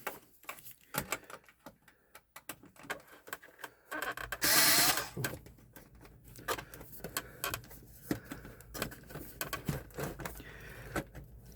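Screws being taken out of a computer's metal chassis: scattered clicks and taps of tool and parts. About four seconds in, a power screwdriver runs in one loud burst of about a second.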